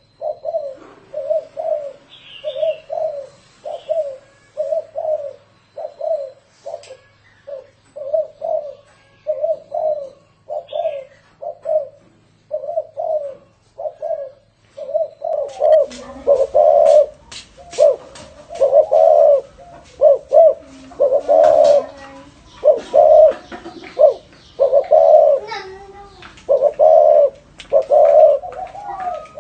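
Spotted dove cooing: a rapid, even string of short low coo notes, about two a second. About halfway through, the coos grow louder and longer, and crackling clicks come in with them.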